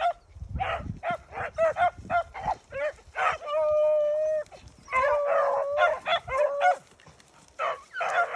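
Beagles baying on a cottontail's trail: a run of short barks and chops, then a long drawn-out bawl about halfway through and another soon after, with a low rumble of wind near the start.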